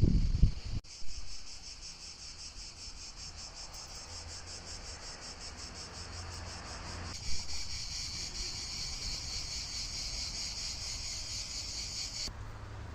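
Insects chirping in a continuous rapid, high-pitched pulsing chorus, which starts abruptly about a second in, grows louder about halfway through and cuts off near the end. A brief low rumble comes at the very start.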